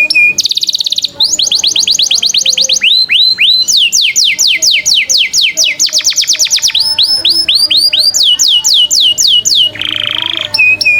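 Mixed songbird song of canary, cililin and lovebird used as a training recording: fast runs of high whistled notes sweeping downward, several a second, in repeated phrases, with a short harsh buzzy note near the end.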